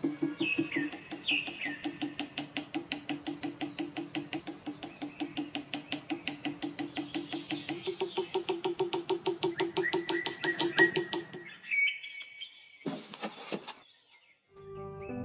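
Birds chirping in short falling notes over a fast, even pulsing sound of about seven beats a second. Everything stops abruptly about eleven seconds in, followed by a few more chirps and a brief burst of noise.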